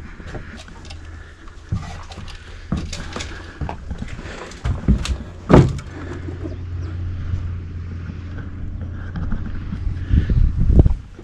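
Clunks, knocks and scrapes of someone moving about and handling fittings inside a stripped-out airplane cockpit, with one louder scrape about five and a half seconds in that falls in pitch, over a low steady hum.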